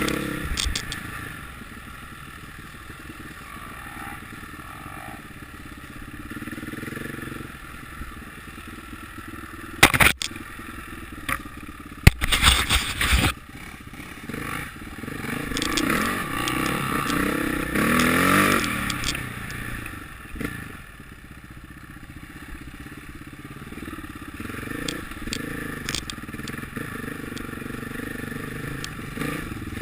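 Motocross motorcycles running on a track. One grows louder and passes by, its pitch dropping, between about fifteen and twenty seconds in. There are sharp bursts of noise about ten and twelve seconds in.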